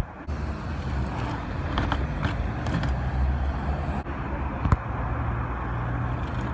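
A motor vehicle's engine running steadily with a low hum, with a few sharp clicks over it.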